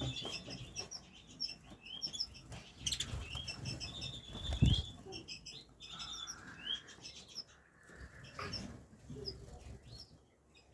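Small caged finches chirping with many short, high calls, with wing flutters as birds move about their cages. A few sharp knocks, the loudest about halfway through.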